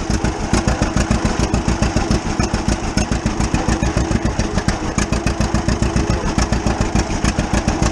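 1935 unstyled John Deere A's two-cylinder engine running under way, its exhaust popping in a rapid, even beat.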